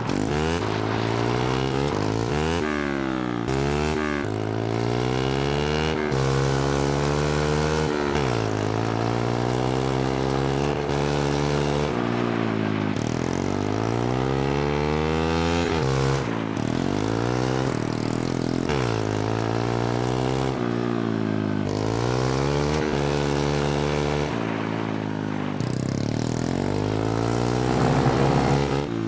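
Mini bike's small engine revving up and easing off again and again, its pitch rising and falling every few seconds with short steady stretches between.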